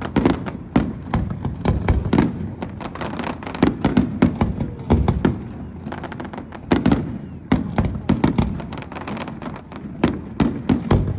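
Fireworks display exploding: a rapid, irregular barrage of sharp bangs and cracks, several a second, with deeper booms echoing between them.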